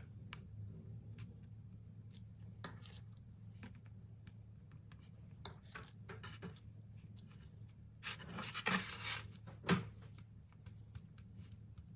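Small handling noises: scattered light clicks and taps, with a louder stretch of rubbing or scraping about eight seconds in, ending in a single knock.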